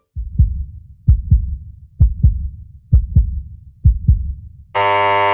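Suspense heartbeat sound effect: low double thumps about once a second, then a loud steady buzzer tone near the end.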